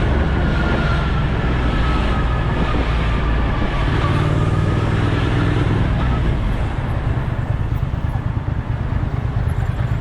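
Motorcycle engine running steadily under way, with a loud low rumble and rushing noise, as heard while riding.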